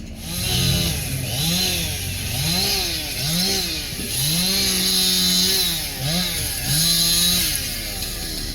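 Two-stroke chainsaw revved in repeated short bursts, its pitch jumping up and dropping back about once a second, held at full revs for over a second around the middle.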